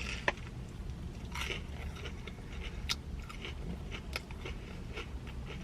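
Close-miked chewing of a batter-coated Korean corn dog: irregular small crunches and mouth clicks, with a few sharper clicks.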